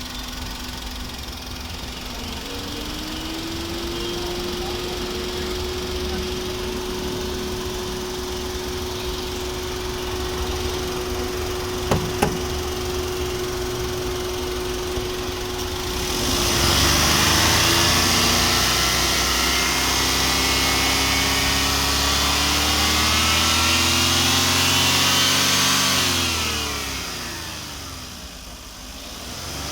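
Alto K10's three-cylinder petrol engine running: a steady idle that rises slightly and holds, then is revved up louder about halfway through and held there for some ten seconds. Near the end the revs fall away and begin to climb again. There are two sharp clicks near the middle.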